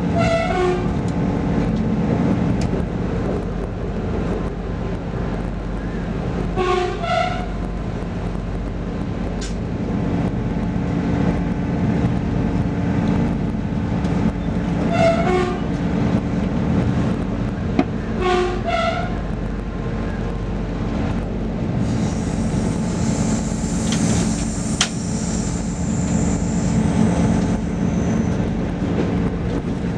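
Passenger train running, heard from inside the carriage: a steady low drone and rail rumble with a constant low hum. Short two-note tones sound four times, and a high hiss joins in for several seconds past the middle.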